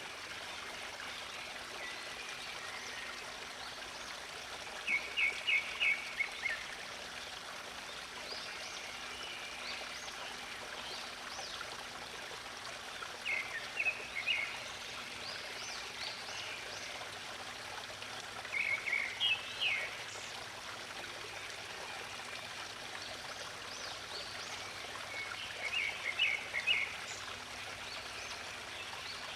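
Steady running stream water with songbirds singing over it. A bird repeats a short phrase of quick, high notes four times, several seconds apart, and fainter chirps come in between.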